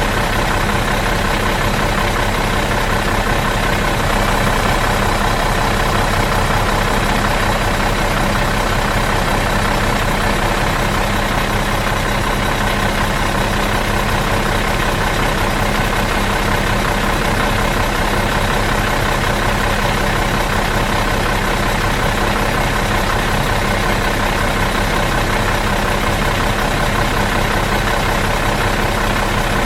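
Bus engine idling in neutral, running steady and even with no change in speed.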